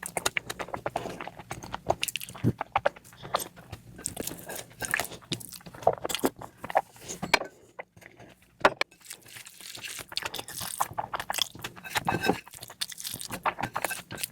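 Close-miked eating sounds: a person chewing and biting food with a steady run of wet clicks, smacks and crunches. There is a brief lull about eight seconds in.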